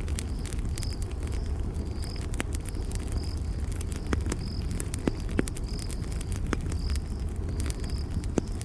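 Campfire burning with a low steady rumble and scattered sharp crackles and pops of burning wood, the loudest pops around the middle and near the end. A cricket chirps steadily about once a second over it.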